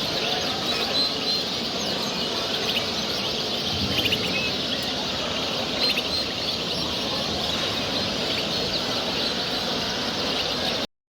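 Many caged ornamental show birds chirping and singing together, a dense steady chatter of overlapping high chirps and trills; the sound cuts out abruptly near the end.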